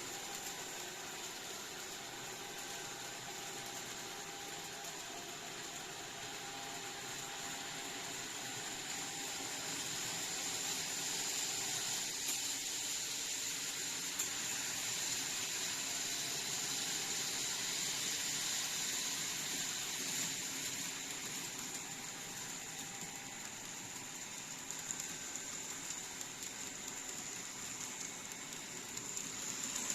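N-gauge model train running on layout track: a steady hiss of wheels and motor with a faint whine, growing louder over the middle as the train comes closer and then fading a little.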